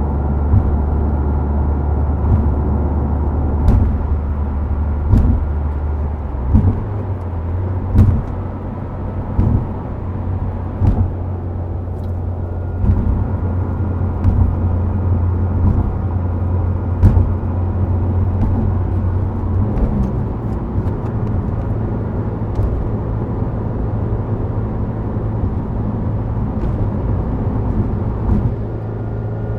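Subaru WRX STI Spec C's turbocharged flat-four and road noise while cruising, with a steady low engine hum whose note shifts about six and a half seconds in. Short sharp knocks come through at irregular intervals, typical of tyres running over road joints.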